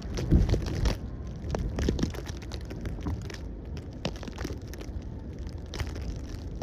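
Footsteps crunching through snow, about two steps a second, over a low wind rumble on the microphone.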